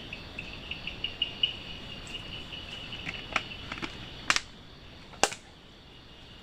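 Insects chirping in quick, even pulses, stronger for the first couple of seconds, over a fainter steady insect hum. A few sharp clicks or knocks come about three, four and five seconds in.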